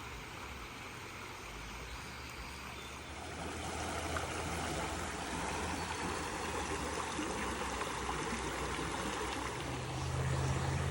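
Flowing water rushing steadily, growing louder about three seconds in.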